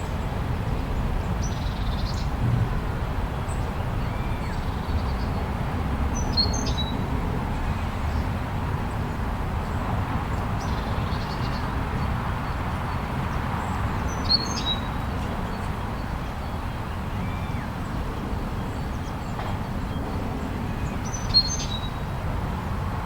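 Steady low rush of snowstorm wind, with a bird's short high chirp three times, about seven seconds apart.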